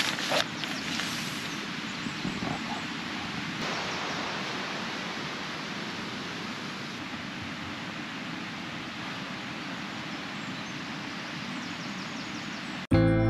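Steady rush of a stream running nearby, with a few short rustles and knocks in the first second or so.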